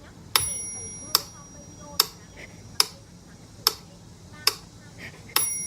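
A sharp click repeating at a steady pace, about one every 0.85 seconds, like a clock ticking. A short, high, steady tone sounds with the first click and again near the end.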